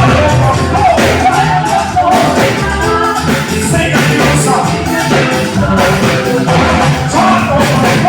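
A live band playing with a singer's voice carrying the melody over a steady beat.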